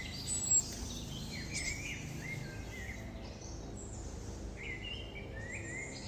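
Small birds chirping: a string of short, high chirps and quick pitch sweeps, the loudest about half a second in, over a steady low background noise.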